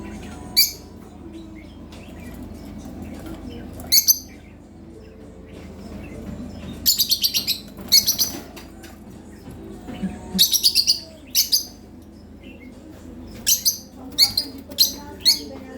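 Lovebirds giving shrill chirps, some single and some in quick runs of several calls, with pauses of a second or more between.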